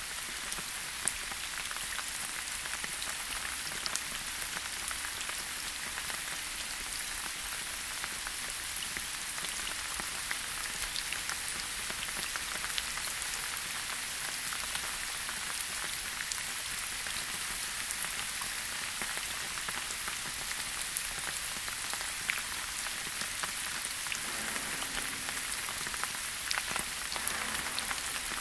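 Steady rain falling in a forest: an even hiss of rain with many scattered individual drop ticks and an occasional louder drip.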